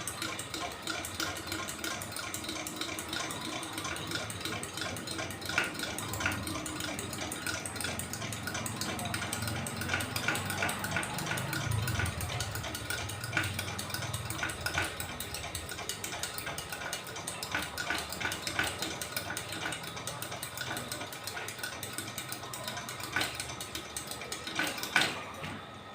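Hand air pump of a Solar 350 c.p. kerosene pressure lantern being worked in a steady rhythm of strokes, pressurising the fuel tank before lighting.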